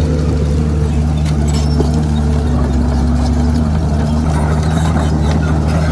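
Komatsu D51PX bulldozer's diesel engine running steadily, with a few upper tones of the engine note fading about four seconds in.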